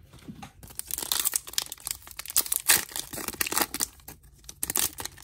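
A foil Pokémon booster pack being torn open by hand, its wrapper crinkling in quick, irregular crackles, loudest in the middle.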